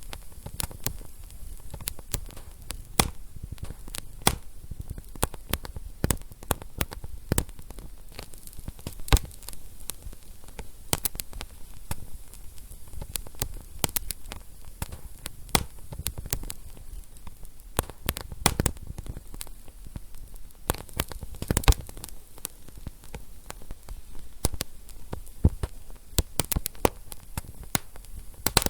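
Wood fire burning in a fireplace, crackling steadily with irregular sharp pops over a low rumble and hiss; the loudest pops come about 9 and 22 seconds in.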